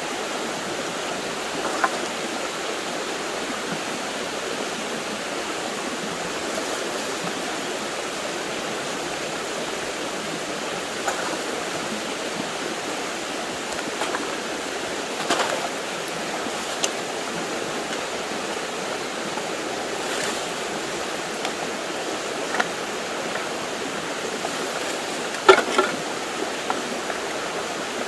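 Steady rush of a flowing stream, with a few scattered clicks and knocks from trash and broken glass being picked up, the loudest about halfway through and near the end.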